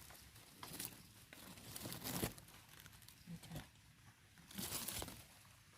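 Intermittent rustling and crunching of leaves and undergrowth in a few short bursts, the loudest about two seconds in and again near the end.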